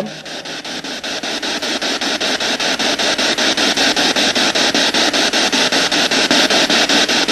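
A spirit box sweeping through radio frequencies: a steady hiss of static chopped into about six short pulses a second, slowly getting louder.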